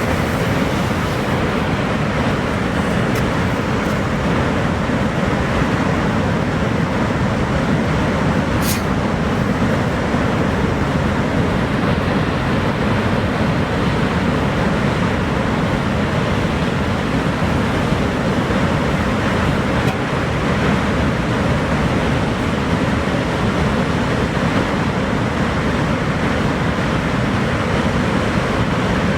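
Niagara Falls: the waterfall's steady, unbroken roar, its noise heaviest in the low and middle range.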